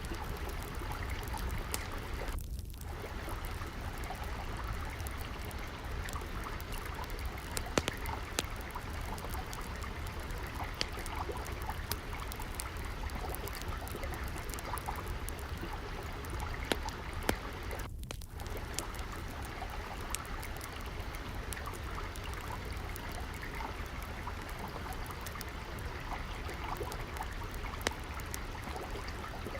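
Water trickling and flowing steadily, with frequent small pops and crackles of a wood fire in a fireplace.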